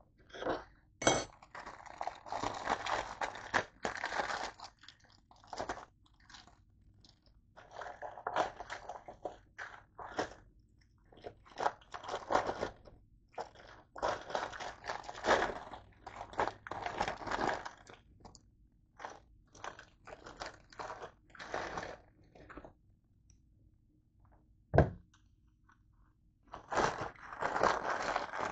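A person chewing food close to the microphone, with crunching bouts of a second or two each, separated by short pauses. There is a sharp click about a second in and another near the end.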